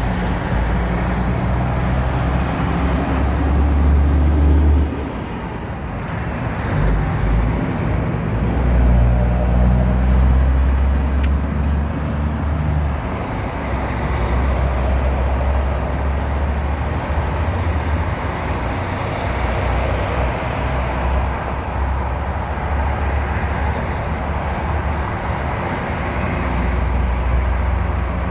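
Heavy trucks running amid road traffic: a steady, loud, deep rumble that dips briefly about five seconds in.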